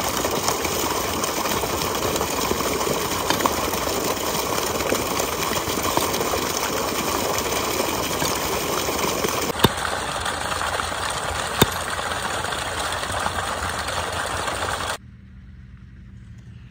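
Irrigation water gushing from a large pipe and splashing onto the ground, a loud steady rush that stops abruptly near the end.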